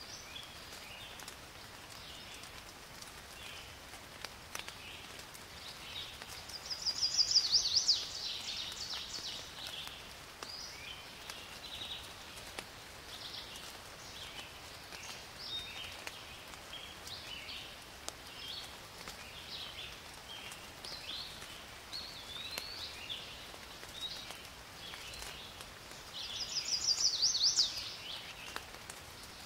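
Birds singing: scattered short chirps throughout, with a loud rapid falling trill twice, about twenty seconds apart.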